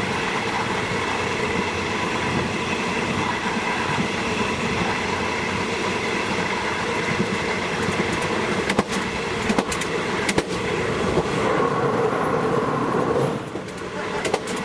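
State Railway of Thailand passenger train running along the line, heard from aboard: a steady rumble with a few held tones, and a cluster of sharp clicks of the wheels over rail joints a little past halfway. The noise dips about a second before the end.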